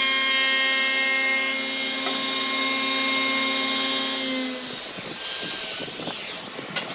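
An electric power tool working wood, its motor running with a steady high whine, then shutting off about two-thirds of the way through. Irregular scraping and knocking of handling follow, with a sharp click near the end.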